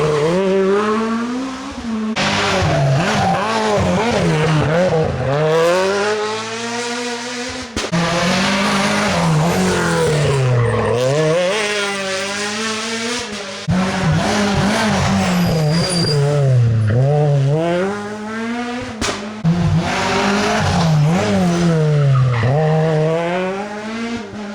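Rally car engine revving hard and dropping again and again as it is driven flat out through a special stage. Each climb in revs is cut off by a gear change or a lift for braking, several times over.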